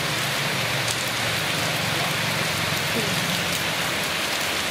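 Steady rain falling: a continuous hiss with scattered drop ticks.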